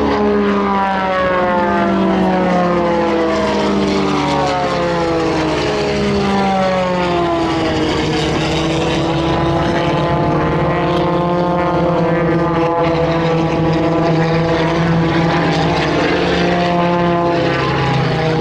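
Propeller airplane engines droning as they fly past, more than one engine note at once. The pitch falls over the first several seconds, then levels off and rises a little.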